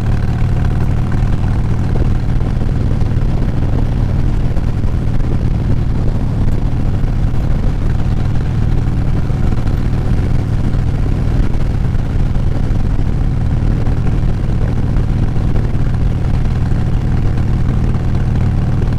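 Motorcycle engine running steadily at highway cruising speed, about 55 to 60 mph, heard from inside the rider's full-face helmet. A steady low hum with an even note above it, no change in speed.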